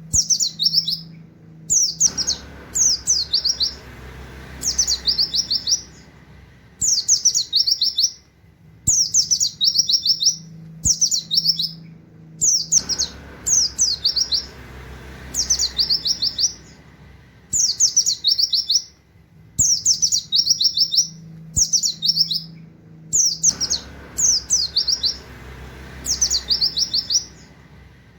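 White-eye (pleci) singing in the rapid 'nembak' style: short bursts of quick, falling high notes with canary-like 'wit wit' calls, a phrase every second or two, over and over.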